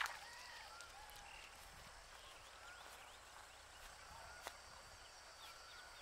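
Quiet outdoor ambience: faint bird chirps and a steady faint high hum, with a sharp click right at the start and another about four and a half seconds in.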